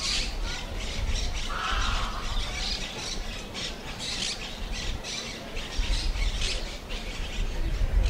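Many birds squawking and calling over one another, with short harsh calls following each other quickly and a low rumble underneath.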